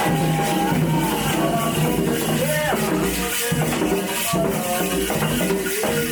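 Candomblé ritual music: voices singing a chant, with rattles shaking in a steady beat.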